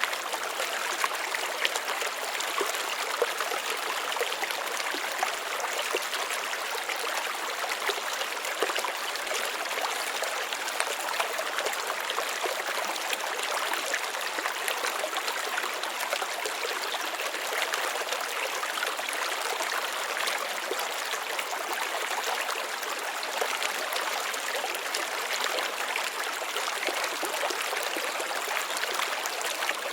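Small flow of water trickling and splashing steadily over rocks, with frequent small irregular splashes.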